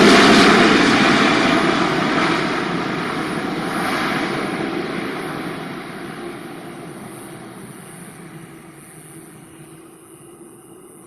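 Boeing 777-300ER's GE90 turbofan engines on landing approach, the jet roar fading steadily as the airliner passes and moves off toward the runway.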